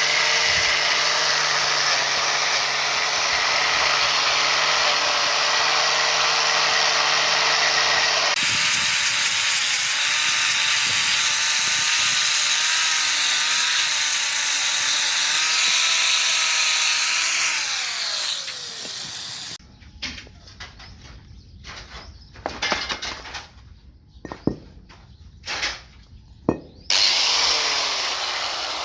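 Handheld electric power tool running at speed with a steady motor whine, spinning down about eighteen seconds in. This is followed by a few sharp knocks and clicks, and the tool starts up again near the end.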